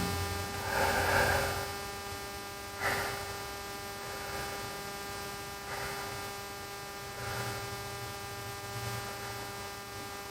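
Steady electrical hum, with a short hiss in the first second or so and a couple of faint clicks.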